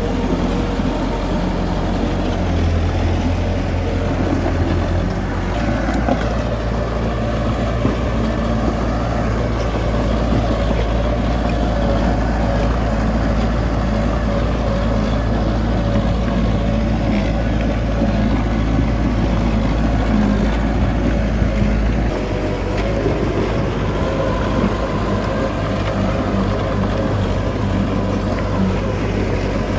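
Heavy diesel engine of earth-moving machinery running steadily under load. Its low note shifts about five seconds in and again after about twenty-two seconds, as the revs or load change.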